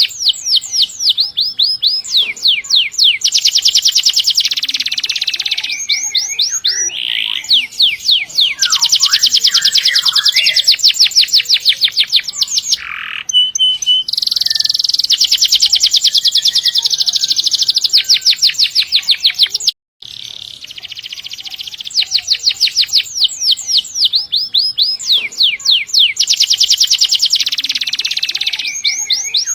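Domestic canary singing vigorously in long, fast rolling trills, one rapid run of repeated notes after another with short breaks between phrases. The song cuts out for an instant about twenty seconds in.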